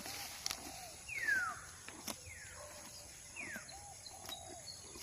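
A bird calling with repeated high whistles that each fall steeply in pitch, about one a second, the loudest about a second in. A softer, lower warbling note and a few sharp clicks come in between.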